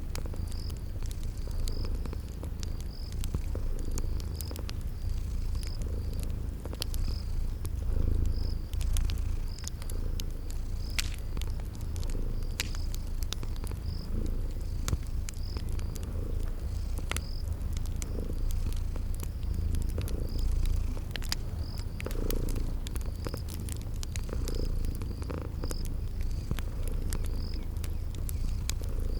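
Cat purring steadily in a low rumble, layered with the scattered crackles and pops of a wood fire and a cricket chirping high about once a second.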